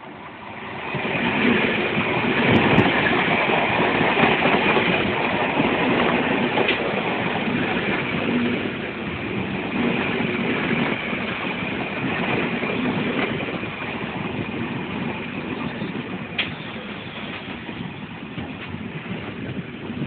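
Electric suburban local train running on the track: a rattling rush that swells about a second in and slowly fades, with a steady high whine and a few sharp clicks.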